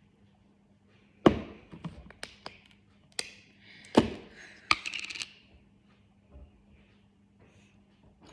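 A run of sharp knocks and taps, loudest about a second in and again around four seconds in, with some rustling between them: a yogurt container and spoon being handled as yogurt is spooned out.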